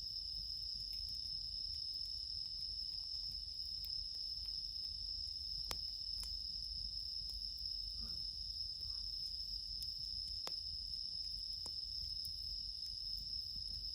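Crickets chirping in a steady high-pitched chorus, with a few faint, sharp crackles from a wood campfire.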